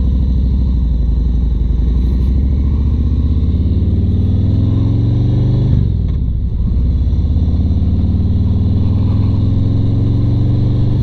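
Harley-Davidson Road Glide Standard's V-twin engine accelerating on the road, its pitch rising, dropping as it shifts up about six seconds in, then rising again to another upshift at the end.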